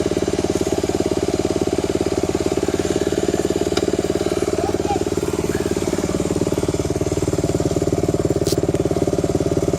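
Dirt bike engine idling steadily, with an even, rapid pulse.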